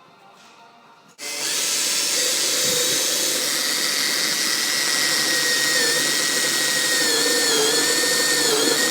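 Power drill with a 20 mm hole cutter boring a parking-sensor hole through a plastic car bumper. It starts suddenly about a second in and runs steadily for over seven seconds, its pitch sagging slightly now and then as the cutter bites.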